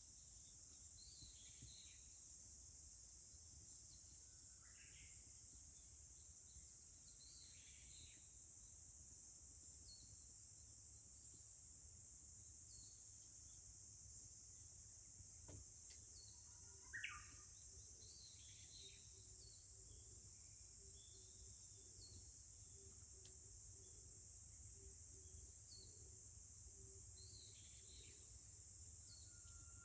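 A steady, high-pitched drone of cicadas, with scattered short bird chirps. One clearer bird call comes about 17 seconds in.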